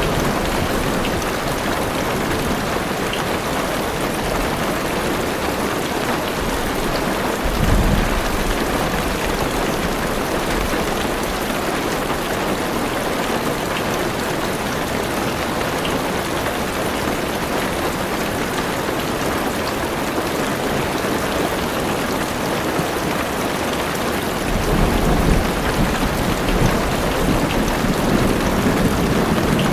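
Heavy rain drumming steadily on a car roof and windows, heard from inside the car. A short thunder rumble comes about a quarter of the way in, and a longer rolling thunder sets in near the end.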